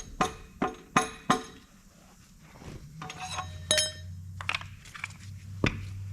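Metal engine parts and tools clinking and tapping during a diesel engine teardown: a quick run of sharp clinks in the first second and a half, then a few ringing metallic clinks in the middle and a knock near the end. A low steady hum comes in about three seconds in.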